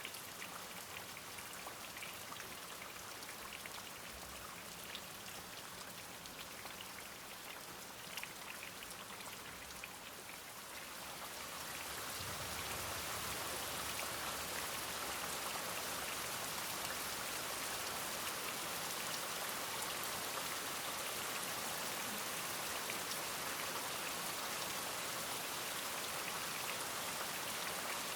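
Rain falling steadily, then swelling into heavier, denser rain about eleven seconds in and holding there.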